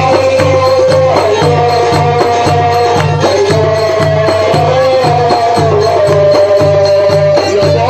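Live Port Said simsimiyya folk music, instrumental: a held, wavering melody line over a steady low beat and jingling percussion.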